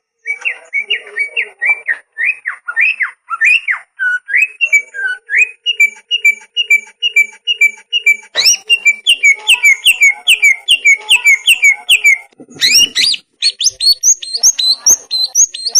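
Greater green leafbird (cucak ijo) singing a fast, continuous run of repeated whistled chirps, several a second. Sharp rising sweeps come about eight seconds in and again near thirteen seconds.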